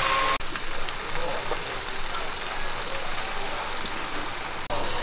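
Beaten egg frying in an oiled pan, a steady sizzling hiss with small crackles, cut off briefly twice, about half a second in and near the end.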